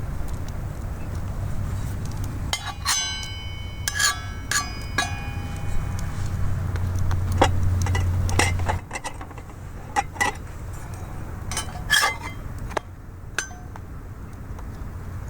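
Metal cookware and utensils clinking: a cluster of sharp strikes with clear ringing tones about three to five seconds in, then scattered single clinks. A low steady rumble runs under the first part and stops about nine seconds in.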